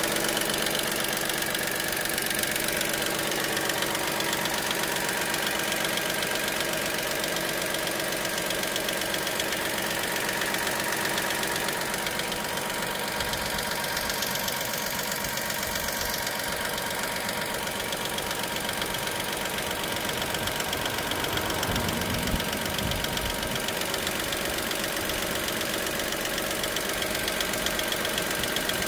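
Dacia Sandero SCe 75 three-cylinder petrol engine idling steadily with a fast, even ticking, the ticking-at-idle fault the owner is documenting.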